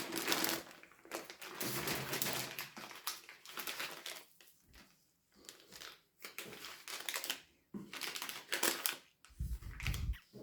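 Packaging being crinkled and rustled by hand as it is worked open, in irregular bursts with short pauses, and a low thump near the end.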